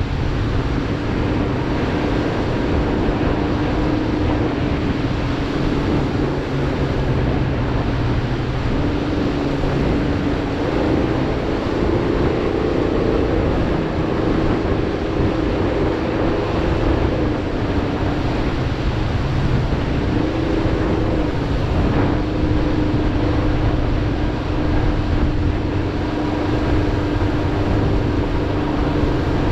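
Powerboat engine running steadily under way through choppy water, with wind and water rushing over it. Its pitch shifts a little a few times as the throttle is worked.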